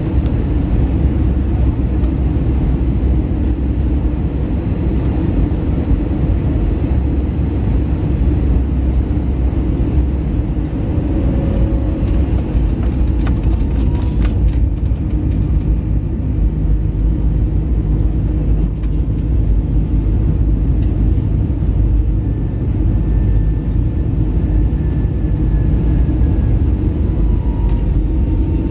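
Steady, loud low rumble and rush of an Airbus A321neo jet airliner in flight, its engines and airflow running without a break, with a few faint clicks about halfway through.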